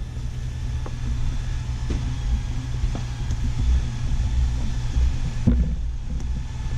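A steady low machine rumble sets in at the start and runs on throughout. Over it come a few light, sharp metal clicks and knocks, about one a second, from hand-working a brake caliper.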